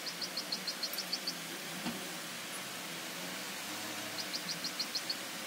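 A small bird chirping in two quick runs of short high notes, about eight a second: one at the start and one near the end, over a steady low hiss.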